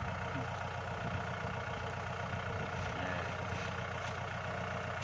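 Kubota L5018 tractor's diesel engine running steadily at a low, even speed, like an idle.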